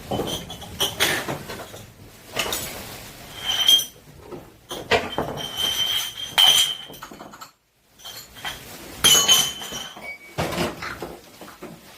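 Household items being handled and tossed together: dishes, glass and metal clattering and clinking in irregular bursts, some clinks ringing briefly. The sound cuts out completely for a moment just past the middle.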